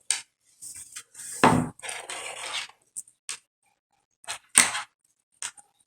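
Handling noise from small hard craft items on a tabletop: a string of light clicks, taps and brief rustles, with a louder knock about a second and a half in and another a little past four and a half seconds.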